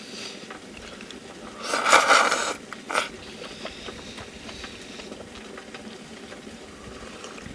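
Camp cooking sounds: a faint steady crackle and pattering like something simmering or sizzling, with a brief loud scrape about two seconds in and a sharp click a second later.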